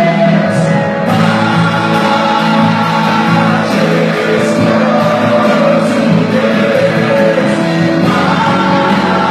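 Church worship band playing a slow praise song, with sustained chords and singing voices.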